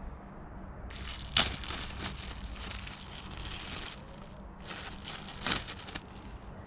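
Crinkling, rustling handling noise in two spells, each with one sharp click: parts or packaging being handled during an air filter swap.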